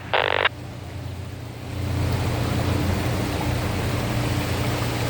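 A short radio beep, then, about two seconds in, a fire engine's steady low engine rumble with rushing, splashing water as it moves through deep floodwater.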